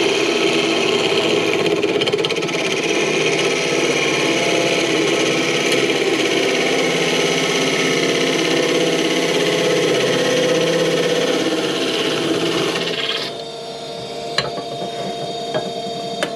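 Wood lathe running, with a spinning wooden piece being worked against, a loud rasping rub, for about thirteen seconds. The rubbing then stops and the lathe's motor hum carries on alone.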